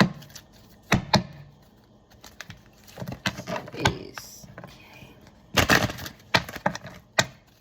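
Tarot cards being handled, shuffled and laid down on a table, heard as sharp clicks and knocks. A dense run of clicks comes near the middle.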